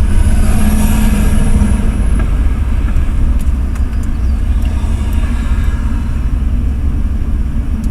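Steady low rumble of a Ford F-350 pickup driving, heard from inside the cab: engine and road noise.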